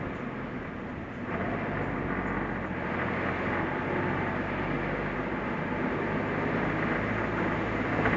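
New-model Suzuki Jimny driving along a forest road: steady engine hum under tyre and road rumble, getting louder about a second in.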